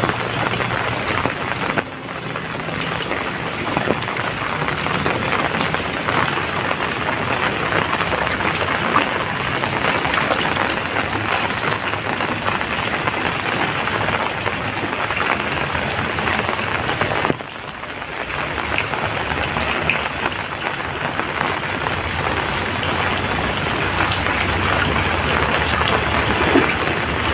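Heavy rain falling steadily, a dense hiss of many drops. The level drops suddenly and briefly twice, about two seconds in and again a little past halfway, then builds back up.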